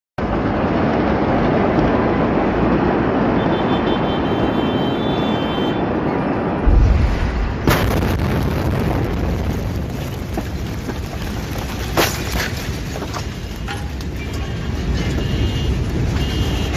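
Large explosion heard through a phone microphone: a loud, rushing rumble throughout, with a deeper boom about seven seconds in and sharp cracks soon after and again near twelve seconds.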